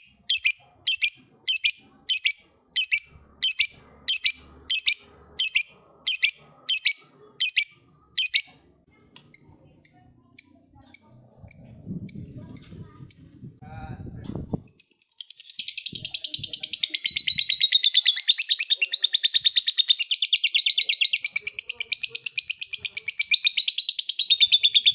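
Lovebird calling: a run of loud, shrill chirps evenly spaced at about one and a half a second, giving way to fainter, shorter chirps. Just past halfway it breaks into a long, unbroken, rapid high chatter, the lovebird's 'ngekek'.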